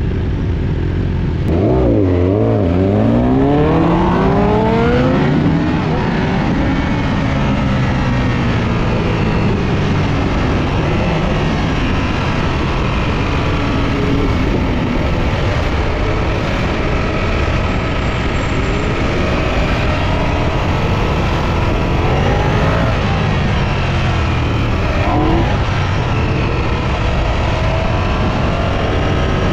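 Ducati Panigale V4S's V4 engine accelerating hard about two seconds in, its pitch climbing as it pulls up through the revs, then a steady rush of noise with the engine running underneath while cruising. Near the end the engine revs up again briefly.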